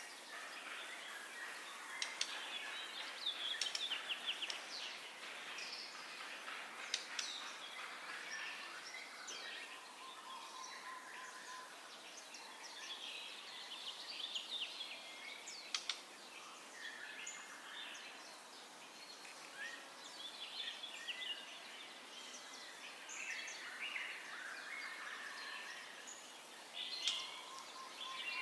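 White-rumped shama singing: bursts of varied, rapid whistled phrases, trills and sharp chips with short pauses between, over a faint background hiss.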